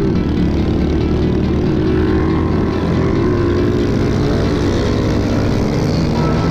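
Pit bike engine running hard while riding the track, its pitch rising and falling a little with the throttle.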